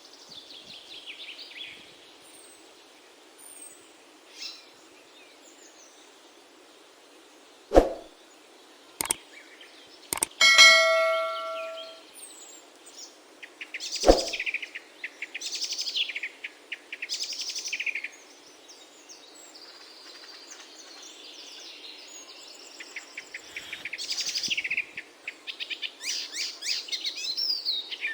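Small birds chirping and trilling in quick bursts. About eight to fourteen seconds in come a few sharp knocks, and a single metallic ringing clang that fades over about a second and a half.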